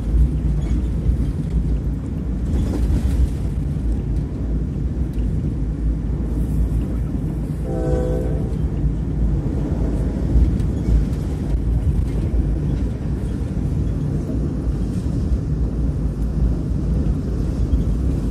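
Passenger train running at speed, heard from inside the carriage as a steady low rumble. A horn sounds once, briefly, about eight seconds in.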